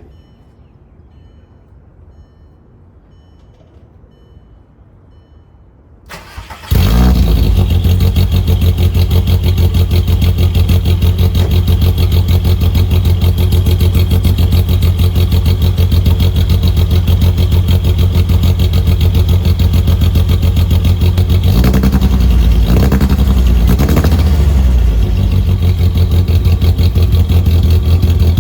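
Volkswagen Jetta Mk4 engine on its stock exhaust, still with muffler and resonator, started after a few faint beeps; it catches about seven seconds in and settles into a steady idle. The revs rise and fall briefly about 22 seconds in.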